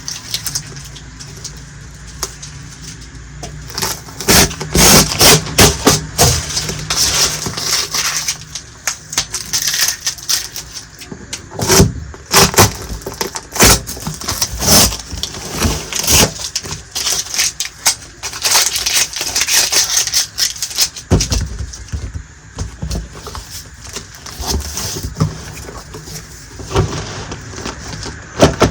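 Miniature plastic toy kitchen pieces and their packaging being handled: irregular clicks, taps and crackling rustles.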